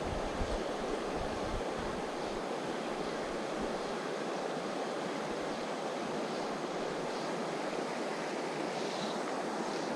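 A mountain river's current rushes steadily over its bed. Low wind rumble on the microphone is heard in the first couple of seconds.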